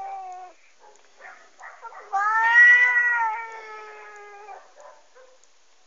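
Angry cat yowling in long, drawn-out caterwauls, heard through a device's speaker as a YouTube video plays. The loudest call starts about two seconds in and rises, then falls, in pitch.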